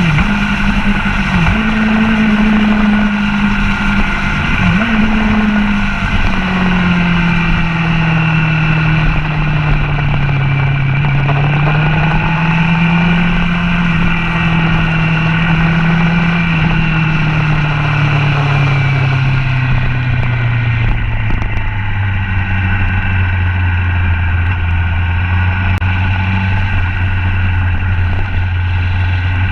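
Motorcycle engine running hard on a racetrack, its note broken twice in the first few seconds, then falling slowly as the bike slows and settling to a low steady note about two-thirds of the way through. Wind rushes over the bike-mounted camera's microphone and fades as the engine note drops.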